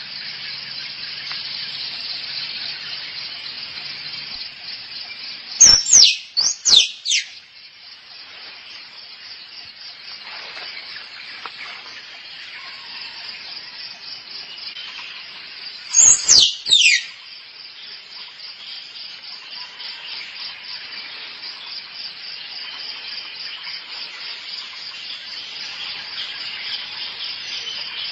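A squirrel calling for a mate in two bursts of sharp, falling squeaks: four about six seconds in and three about ten seconds later. A steady high insect drone runs under the calls.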